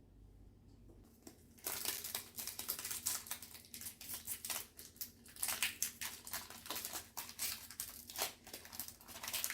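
Foil Pokémon card booster pack being torn open and crinkled by hand: a dense run of irregular crackles that starts about a second and a half in and goes on to the end.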